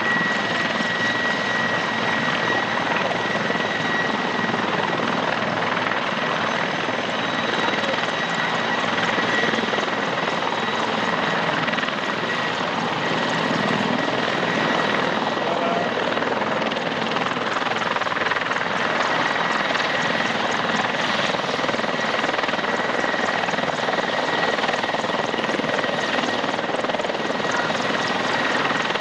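Helicopter running steadily: dense turbine and rotor noise with a steady high whine.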